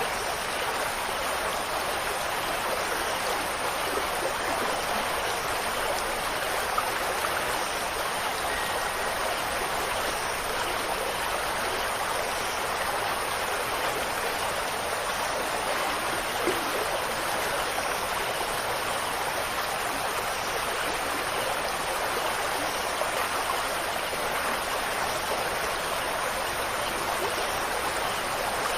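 Steady rush of water, an even hiss that does not let up.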